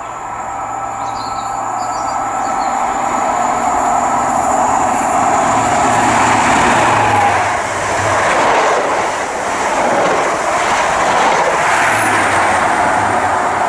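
A High Speed Train (HST) with diesel Class 43 power cars running through a station at speed. Its engine and the wheels on the rails grow louder over the first several seconds as it approaches, then stay loud as the train rushes past close by.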